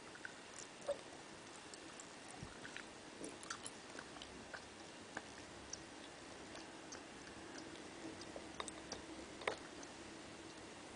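Faint close-up mouth sounds of someone eating gummy candies: soft chewing with scattered small wet clicks and lip smacks, one sharper click about a second in and another near the end.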